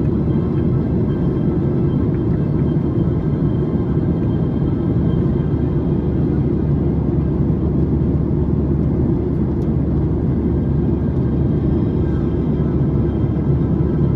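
Boeing 737-800 cabin noise in cruise: a steady, unchanging low rumble of the CFM56 jet engines and the airflow over the fuselage.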